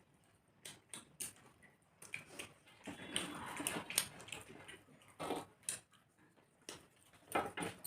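Eating sounds: chewing, lip-smacking and wet mouth clicks as rice and chicken curry are eaten by hand, irregular and close, with a busier stretch of chewing a few seconds in.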